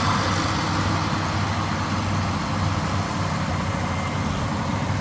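Heavy diesel engine running steadily at a constant speed, with no revving.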